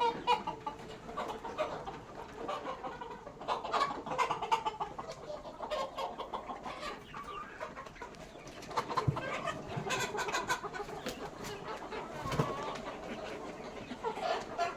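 A flock of Sonali chickens clucking, with many short calls overlapping and a few sharp clicks among them.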